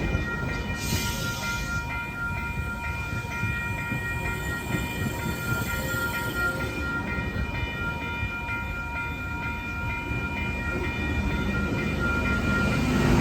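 Train running along the track: a steady rumble with a constant high whine over it, growing louder near the end.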